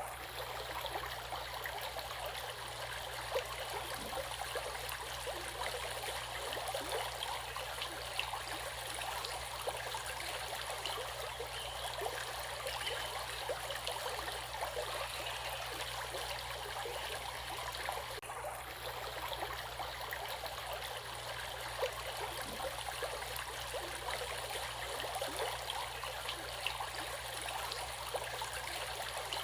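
Water flowing steadily in a stream, a continuous rush laced with many small splashes and gurgles.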